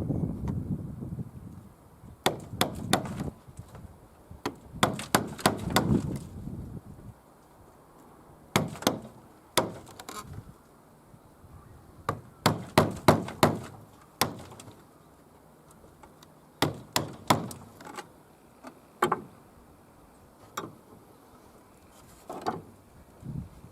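Hammering: sharp blows in short runs of several strikes, with pauses of a second or two between the runs.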